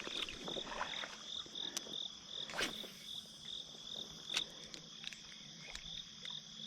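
Insects chirping in a steady chorus, an even high-pitched pulse about two to three times a second, with a few faint clicks and one sharper knock a little over two and a half seconds in.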